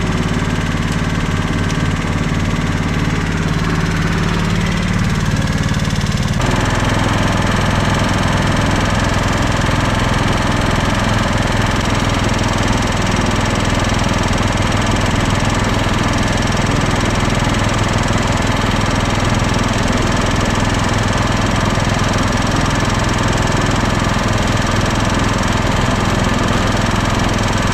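Late-1990s Scotts 16-horsepower lawn tractor engine running steadily, its note changing abruptly about six seconds in.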